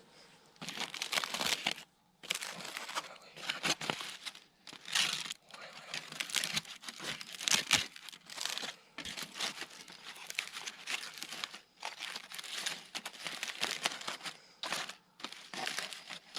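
Crinkling and crumpling of a wrapping being handled close up, in irregular bursts with short pauses.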